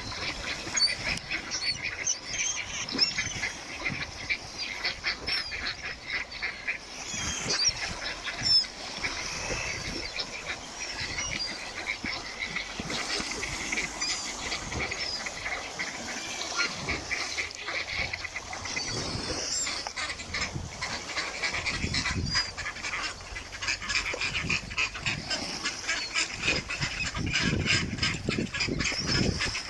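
A flock of ducks quacking and calling continuously, many voices overlapping in a steady chatter.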